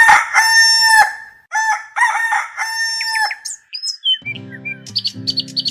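A rooster crowing twice, each crow a long held call that drops at the end; the second starts about a second and a half in. Near the end, guitar music starts with bird chirps over it.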